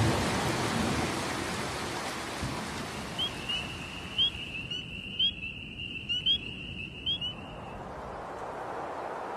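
Steady rain, easing off over the first few seconds. From about three seconds in, a high steady trill with short repeated chirps sounds over it for about five seconds, then stops.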